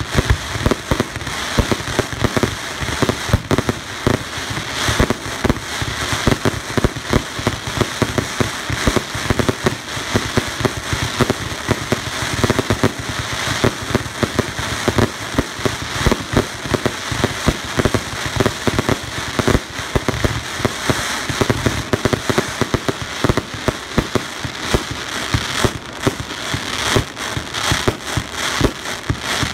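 Fireworks display going off continuously: a rapid, dense run of bangs and pops over steady crackling.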